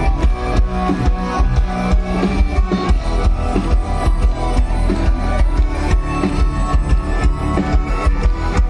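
A rock band playing an instrumental passage: a drum kit keeping a steady beat under guitars.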